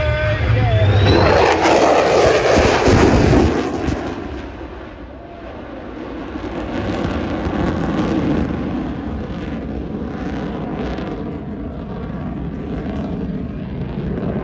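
Airplane engine noise from a fly-by: a loud, even rush that holds for the first few seconds, eases off, then swells again about eight seconds in before settling.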